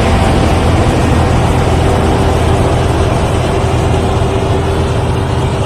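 Taka Tech rice combine harvester running steadily, its engine giving a loud, even rumble with a steady hum above it.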